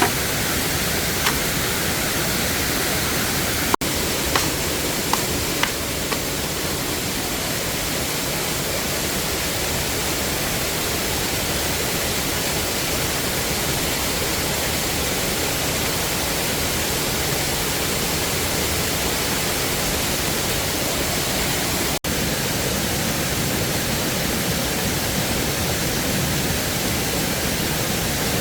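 Steady rushing roar of a waterfall, with a few light clicks in the first few seconds; the sound drops out for an instant twice.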